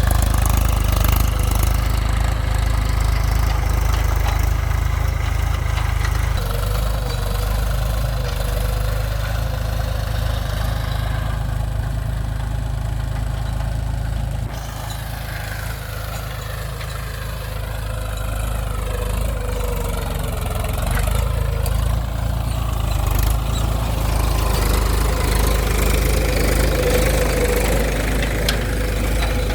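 Mahindra 275 TU tractor's three-cylinder diesel engine running under load while pulling a plough. It runs steadily, dips quieter for a few seconds just past the middle, then builds back up.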